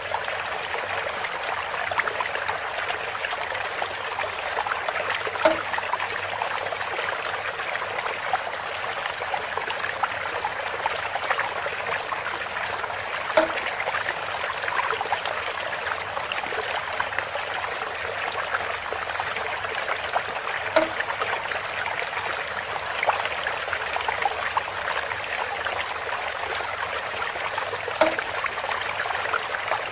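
Water trickling steadily through a bamboo spout, with a short pitched plop about every seven to eight seconds.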